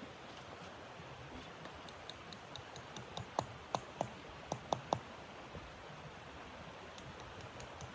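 A steady hiss with a run of small, sharp clicks, and a cluster of louder knocks with a brief ringing tone in the middle.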